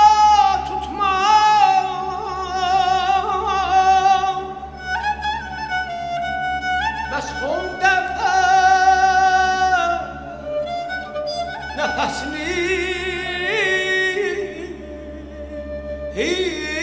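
Azerbaijani mugham singing over bowed strings: long held notes with fast wavering ornaments and gliding pitch, accompanied by kamancha and orchestral strings.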